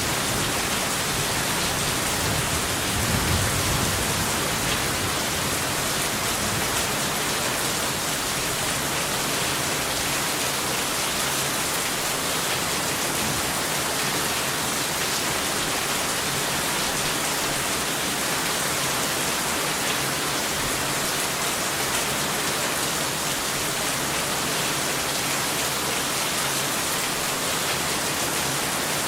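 Steady heavy rain falling, an even hiss of drops on a surface, with a low rumble of distant thunder in the first few seconds that fades away.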